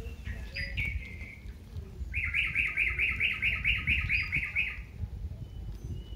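A bird calling: one high chirp about half a second in, then a fast, even run of about a dozen chirps, some five a second, lasting two to three seconds.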